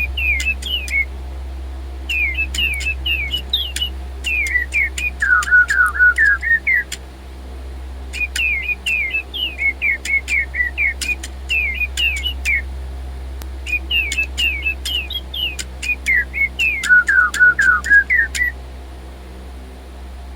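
Silverlit DigiBirds robot toy birds chirping electronic whistled birdsong: groups of quick rising and falling chirps with short pauses between them and sharp clicks among the notes, over a steady low hum.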